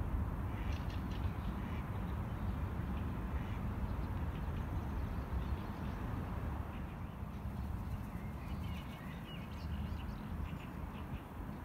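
Birds calling in short scattered notes, a cluster about a second in and more near the end, over a steady low rumble.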